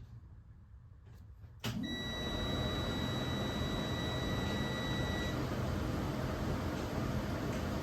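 The school bus's dash warning buzzer sounds one steady high-pitched tone for about three and a half seconds and then stops. It starts just after a sudden rise in steady running noise from the bus as it powers up, about a second and a half in.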